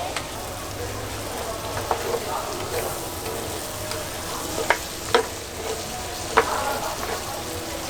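Chicken gizzards sizzling as they are stir-fried in a pan, with three sharp clinks in the second half of the stirring.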